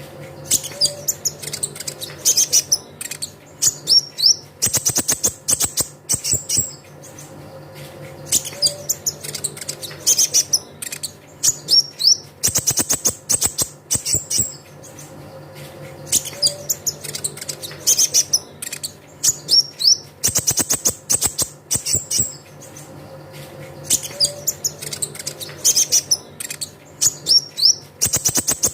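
Kolibri ninja (konin) sunbird song: loud, very high, rapid chirps and trills in bursts with short pauses. The same sequence repeats about every eight seconds, as a looped lure recording. A faint steady low hum runs underneath.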